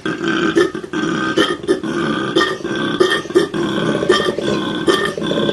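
Koala bellowing: a long, rough, rapidly pulsing call with no break.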